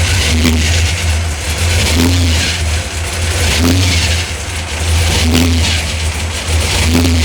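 Supercharged big-block Chevy V8 running, its sound swelling and easing about every second and a half.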